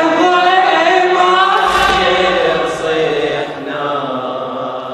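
A group of men chanting a Shia latmiya refrain in unison, unaccompanied, with one dull thump about two seconds in.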